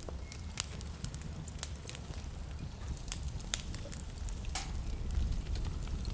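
Wood fire burning in a fireplace: a steady low rumble of flames with irregular sharp crackles and pops from the burning logs, one of the loudest about four and a half seconds in.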